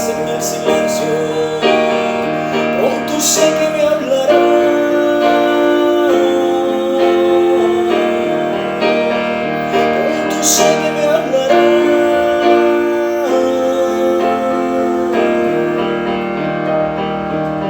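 Instrumental ballad passage led by piano, with sustained chords that change every second or two under a gliding melody line.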